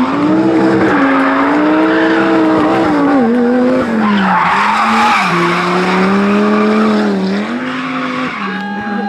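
Rally car engine at high revs, its note rising and falling several times as the throttle is lifted and gears are changed. Under it is tyre noise from the car sliding, loudest about four to five seconds in.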